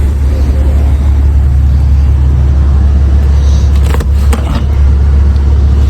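2022 Maserati Levante Modena engine idling, a loud steady low rumble, with a few short clicks about four seconds in.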